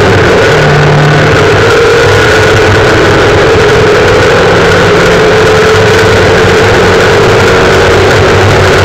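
Volkswagen rally car's engine running hard at a steady pitch that creeps slightly upward, heard from inside the cabin over the noise of gravel and the road. The recording is loud and overloaded throughout.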